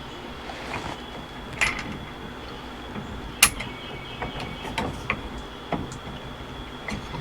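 Scattered metal clicks and knocks of steering wheel hub parts and bolts being handled and fitted, the sharpest about one and a half seconds and three and a half seconds in, over a faint steady high-pitched whine.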